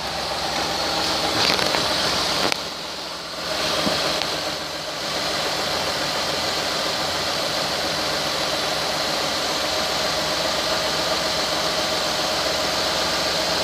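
2004 Ford Escape engine running at idle, steady apart from a brief dip in level about two and a half seconds in.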